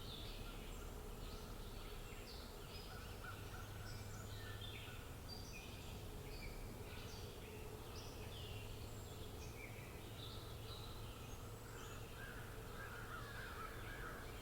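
Several birds chirping and calling, many short overlapping chirps throughout, over a faint steady low hum.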